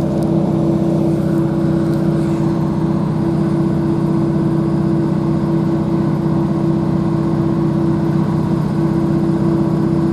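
Diesel multiple unit's underfloor diesel engine running steadily with a constant drone, heard from inside the carriage of a Northern Class 156 coupled to a Class 150.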